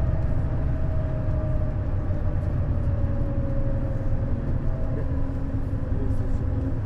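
Neoplan Skyliner N 1122/3C double-decker coach under way: a steady low engine and road rumble with a faint whine that drifts slowly down in pitch.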